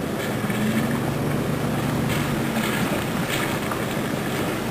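Steady rushing of creek water, with a vehicle engine humming faintly underneath for the first couple of seconds.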